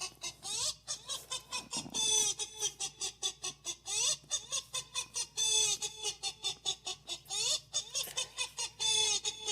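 Chicken clucking in quick, short calls about four a second, with a longer, louder squawk every couple of seconds.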